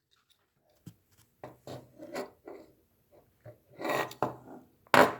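A cardboard model box being handled and opened by hand: a run of short rubbing and scraping sounds, louder about four seconds in, with a sharp click near the end.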